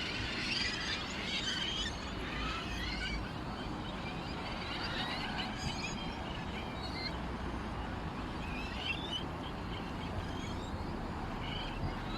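Many small songbirds chirping and twittering, with quick overlapping high calls throughout, busiest in the first few seconds. A steady low background rumble runs underneath.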